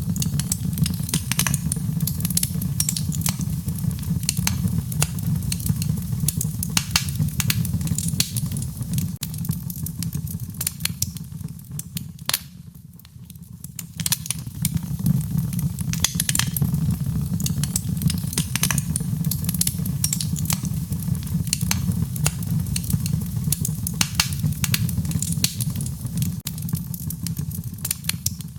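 Wood fire crackling, with frequent sharp pops and snaps over a steady low rumble of burning. The pops thin out and the fire goes quieter for a moment about halfway through.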